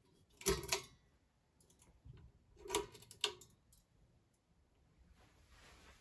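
A few sharp clicks and knocks from something being handled: three louder ones about half a second, under three seconds and just over three seconds in, with smaller ticks between, and a faint rustle near the end.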